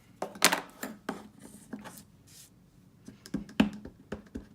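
Irregular sharp clicks and taps of hard stamping supplies, an ink pad and a stamp, being handled and set down on a craft table, with a short soft rub partway through.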